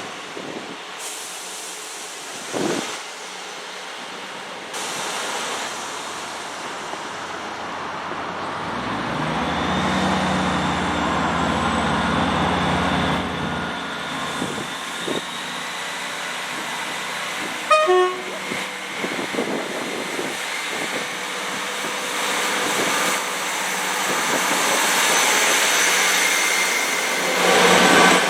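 A train running through a station, with a low engine drone for a few seconds and a short horn toot about two-thirds of the way through; the noise of the train grows louder near the end.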